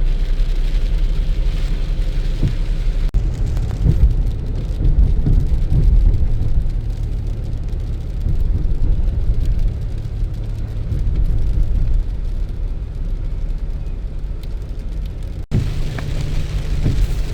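Rain falling, under a low, steady rumble; the sound breaks off sharply twice, about three seconds in and near the end.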